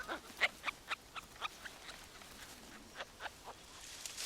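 A string of a dozen or so short, sharp animal chirps and clicks, with a faint thin whistle near the end: forest sounds around snub-nosed monkeys playing in the trees.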